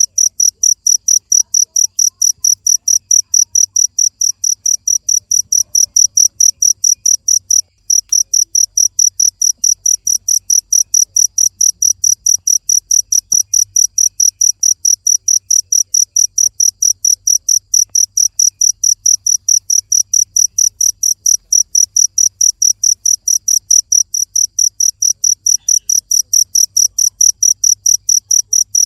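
A cricket chirping loudly and steadily, a high pulsed trill repeated about three to four times a second, with one short break about eight seconds in.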